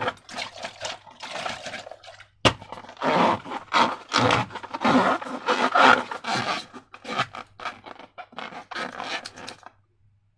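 Slime and a rubber balloon being worked by hand: a run of irregular rubbing and scraping strokes, with one sharp click about two and a half seconds in. The strokes stop shortly before the end.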